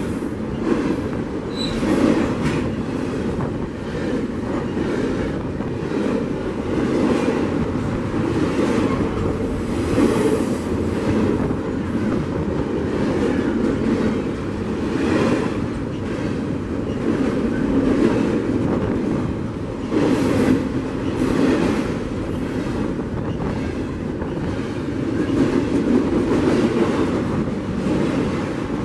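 A train rolling past, its wheels knocking over the rail joints in a running clickety-clack over a steady rumble.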